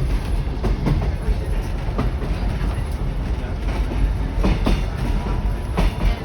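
Kuranda Scenic Railway passenger train running along the track, heard from inside a carriage: a steady low rumble with irregular clacks from the wheels passing over rail joints.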